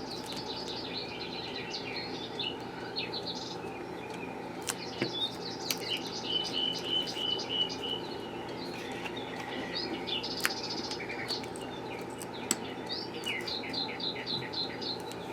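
Small birds chirping and twittering in quick repeated trills over a steady low hum, with a few faint clicks.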